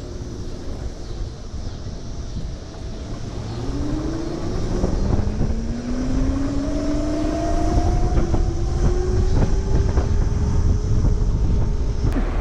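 Electric moped's motor whine rising slowly and steadily in pitch as it accelerates, over a heavy rumble of wind on the microphone.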